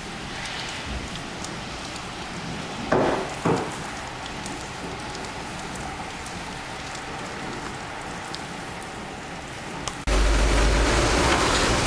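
Steady rain falling, an even hiss with scattered drop ticks and two brief louder sounds about three seconds in. Near the end the sound switches abruptly to a louder, denser hiss.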